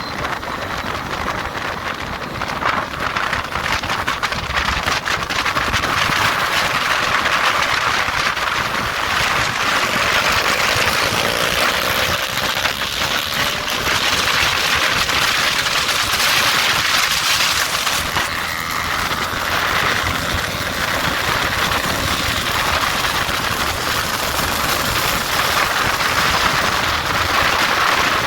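Motorcycle on the move: engine running under heavy wind rush over the microphone, with a brief rising engine tone about ten seconds in.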